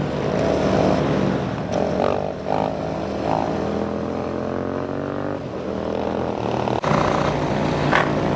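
Motorcycle engines running, with several rising revs in the first few seconds. The sound changes abruptly about seven seconds in.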